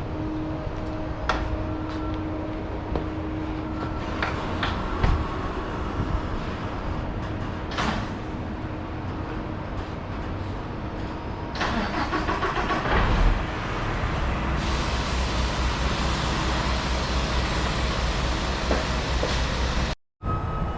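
Semi-truck engine running, with scattered clicks and knocks; the engine noise grows louder about twelve seconds in and settles into a steady low rumble.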